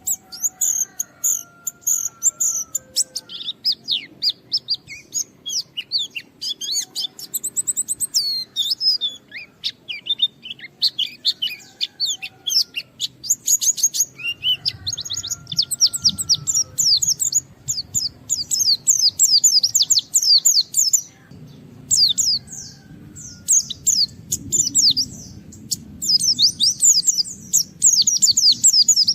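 White-eye (pleci) singing hard and fast, as a bird does when challenging a rival: a dense run of high chirps and rapid trills, with a couple of short breaks past the middle.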